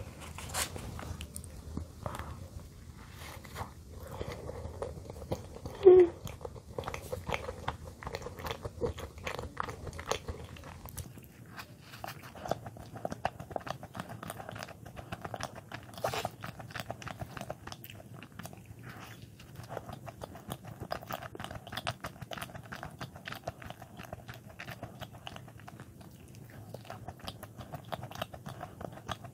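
Close-up mouth sounds of biting and chewing soft cream-filled bread, with many small wet clicks. One brief, much louder sound about six seconds in.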